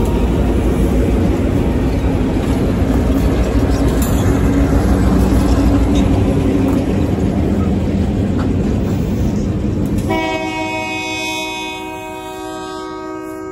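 EMD GP-series diesel locomotives (a GP10, a GP7u and a GP38-2) run past close by with loud engine noise. About ten seconds in, the engine noise falls away as the freight cars follow, and a locomotive air horn starts one long steady blast that is still sounding at the end.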